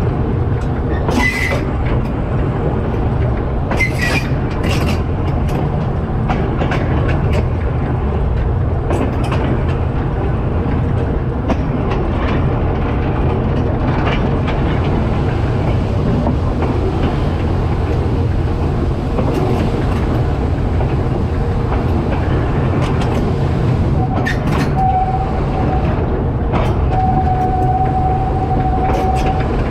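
Train running along standard-gauge track: a steady low rumble with occasional sharp clicks of wheels over rail joints. Near the end a thin, steady squeal comes in, broken once, as the wheels take a curve.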